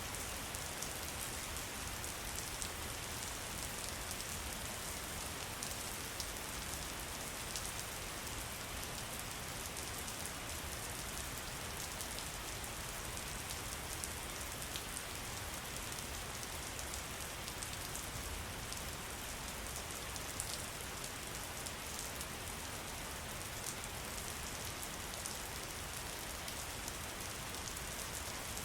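Steady rain falling on a surface: a dense, even patter with many small ticks of single drops.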